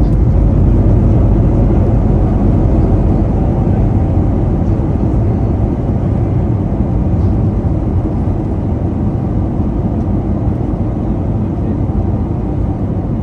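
Airbus A321neo cabin noise on the landing roll: a loud, steady rumble of engines, wheels and airflow, getting gradually quieter as the airliner slows.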